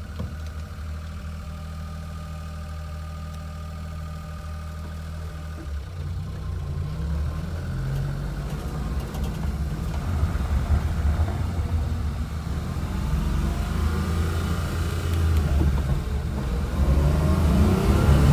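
Daihatsu 4WD mini van's engine idling steadily, heard from inside the cabin. About six seconds in it pulls away and grows louder, with the revs rising near the end.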